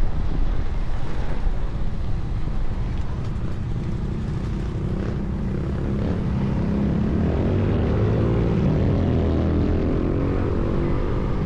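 Motorcycle engine running while riding, with wind rumbling on the microphone; from about halfway through, the engine's hum comes up steadier and a little louder.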